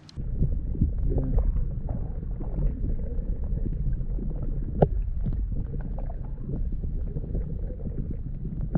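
Wind buffeting the microphone: a steady low rumble, with scattered small knocks and clicks running through it.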